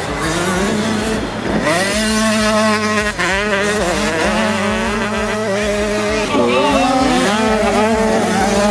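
Two-stroke 85 cc motocross bikes racing, their engines revving. One engine climbs sharply in pitch about a second and a half in, and several engines waver against each other after that.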